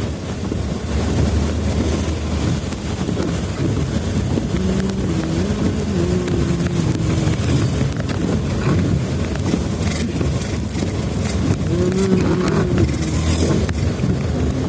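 Motor vehicle running along a road, with steady road and wind rumble and an engine hum that wavers in pitch about five seconds in and again near the end.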